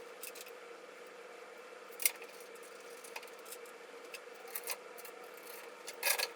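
A few light clicks and clinks of small steel hardware (socket-head bolts, washers, lock washers and nuts) being handled and fitted, with a cluster near the end, over a steady low hum.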